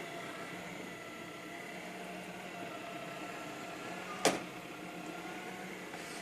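iClebo Arte robot vacuum cleaner running steadily, its motor and suction fan whirring with a hiss, with one sharp knock a little over four seconds in.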